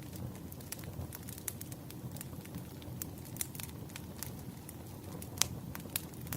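Campfire burning, a steady low rumble of flames with frequent sharp crackles and pops of burning wood, one louder pop about five and a half seconds in.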